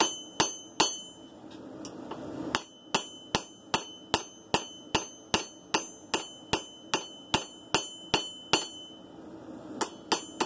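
Hammer blows on hot blade steel over a ringing anvil, about two and a half strikes a second, with a short pause about a second in and another near the end: hammering a kink out of the back of a san mai blade to straighten it.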